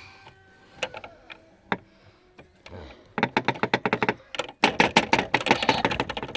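A few single sharp clicks, then from about three seconds in fast runs of sharp mechanical clicks, around ten a second.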